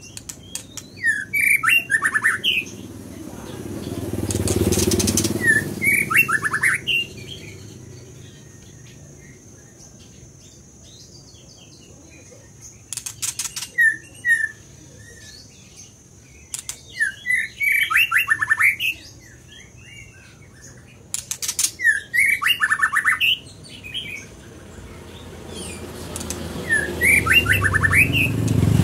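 White-rumped shama singing in about six short bursts of quick, varied whistled phrases with pauses between them, with sharp rattling clicks between some phrases. A low rumble swells around four seconds in and again near the end.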